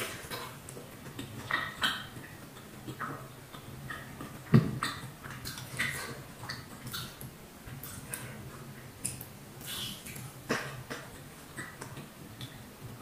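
Close-up wet chewing and lip-smacking of a person eating soft battered fried tempeh (tempe mendoan) dipped in soy-chili sauce, a run of irregular small mouth clicks. A single louder thump comes about four and a half seconds in.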